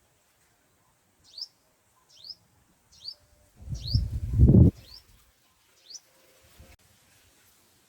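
A white-eye gives a series of six short, high chirps, evenly spaced about a second apart. About four seconds in, a louder low rustle or flutter comes up close and stops abruptly, like wings or movement at the nest.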